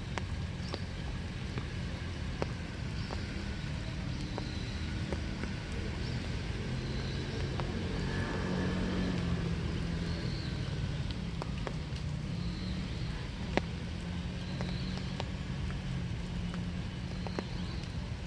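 Steady winter rain with scattered drips ticking on hard surfaces over a low hum, and faint high chirps now and then. A broad swell rises and fades around the middle, like a vehicle passing on a wet road.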